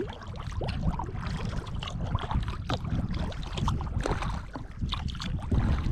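Kayak paddle dipping and splashing in the water, with drips and small irregular knocks, over a low rumble of wind on the microphone.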